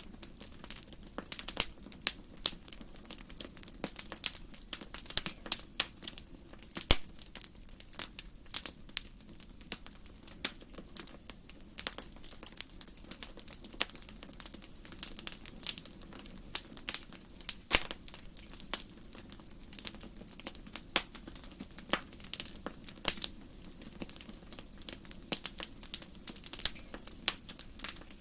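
Wood fire crackling in a fireplace: irregular sharp pops and snaps, several a second, over a soft steady low background.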